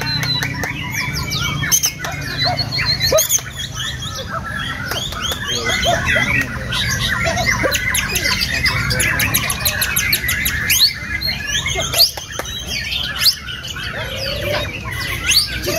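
Many caged white-rumped shamas singing at once: a dense, unbroken tangle of overlapping whistles, chirps and rapid notes, over a steady low rumble.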